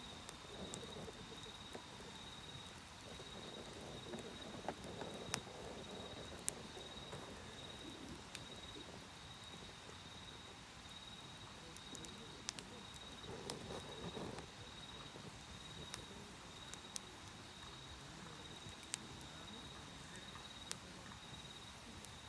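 Wood fire crackling, with sharp pops scattered irregularly through it, under a steady high trill of autumn insects.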